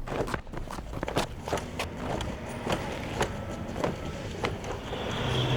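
Footsteps on pavement, a person running with irregular steps. A steady tone comes in near the end.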